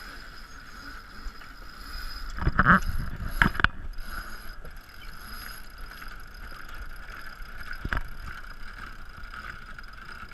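Small sailboat tacking through the wind: a burst of sail flapping and knocking from the sail and rigging about two to four seconds in, then a single knock near the eighth second, over steady wind and water noise.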